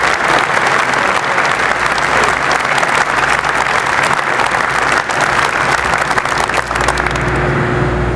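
Audience applauding after a speech, a dense steady clapping that begins to thin out near the end.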